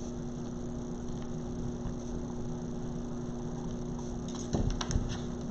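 Steady electrical hum over room noise. A few light clicks and knocks come about four to five seconds in.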